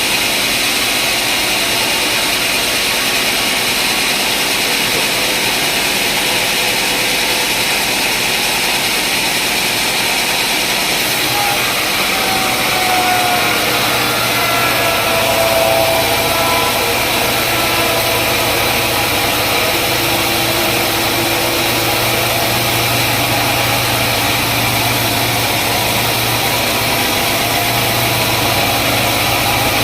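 Sawmill machinery running steadily with a constant engine-like hum. About eleven seconds in, a deeper low hum joins and holds.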